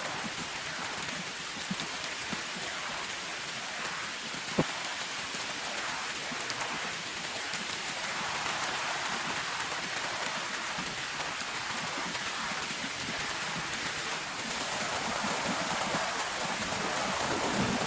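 Heavy rain falling steadily, with a single sharp tap about four and a half seconds in.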